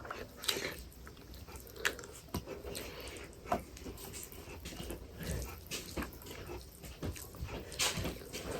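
People chewing food, with scattered soft clicks and mouth smacks at irregular moments.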